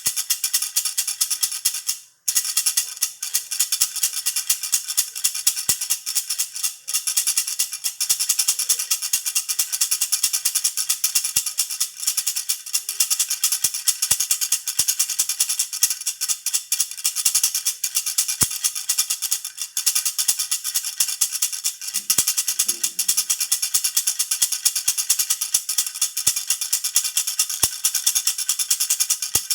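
A jhunjhuna (baby rattle) shaken rapidly and continuously, making a dense, bright jingling rattle. The shaking breaks off very briefly about two seconds in.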